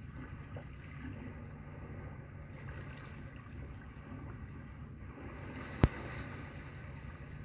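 Ocean-like rushing noise from a television's speaker, swelling and easing like surf. A single sharp click comes near the end.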